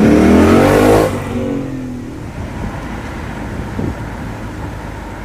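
Ford Mustang Mach 1's 5.0-litre V8 revving hard, then falling away about a second in to a lower, steady running sound.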